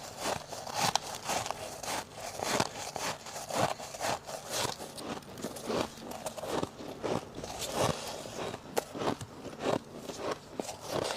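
Close-miked crunching of freezer frost: a dense, irregular run of crisp crunches with no steady rhythm.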